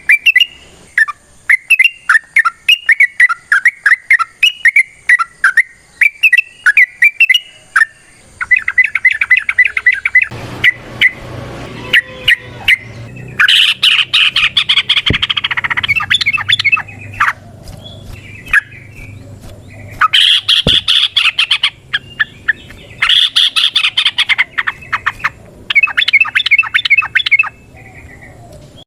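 Yellow-vented bulbul (trucukan) singing in long rapid runs of short bubbly notes, breaking into denser, louder bursts of chatter several times in the second half.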